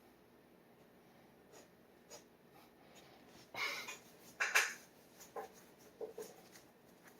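A steel G-nib dip pen scratching across paper in short strokes. Two louder scratches come in the middle, with light ticks and taps of the nib around them.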